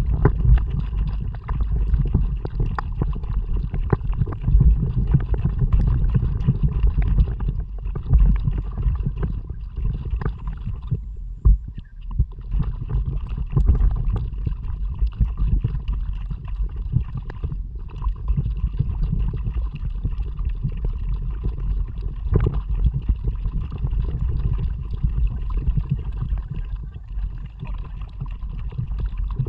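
Kayak moving through water under paddle, with splashing and a heavy, steady low wind rumble on the action camera's microphone.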